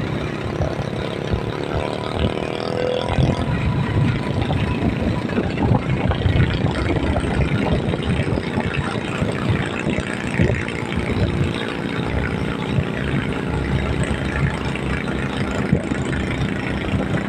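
Vehicle engine running with road noise during a drive.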